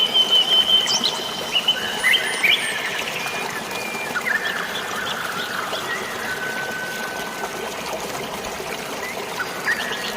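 Water trickling and pouring in a steady wash, with birds chirping and whistling over it. The calls are busiest in the first couple of seconds, and there is a long held whistle in the middle.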